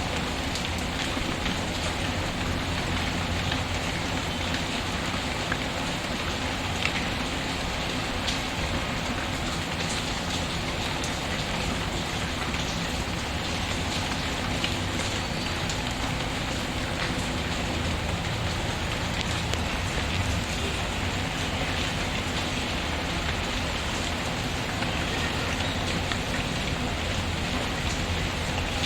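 Steady rain pattering, with occasional small pops and crackles from a wood fire in a fireplace.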